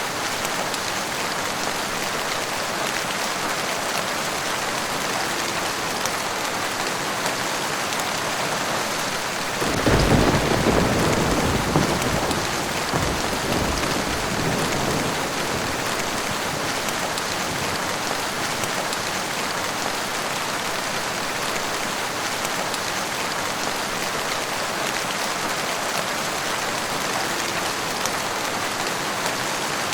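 Steady rain falling. About ten seconds in, a roll of thunder rumbles loudly for a couple of seconds, then dies away over the next few seconds into the rain.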